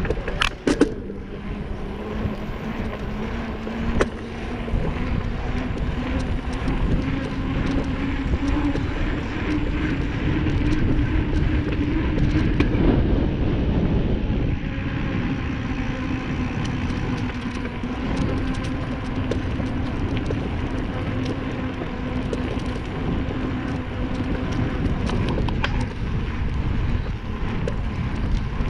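Wind buffeting the microphone of a moving bicycle rider, with a steady low hum that rises a little in pitch toward the middle and settles again. A few sharp clicks come about a second in.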